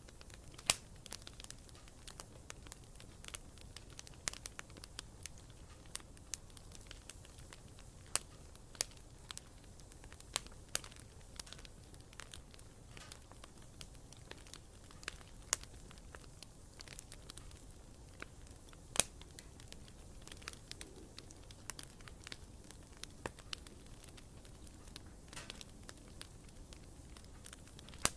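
Wood campfire crackling: irregular sharp pops and snaps over a low, steady rumble of burning flames.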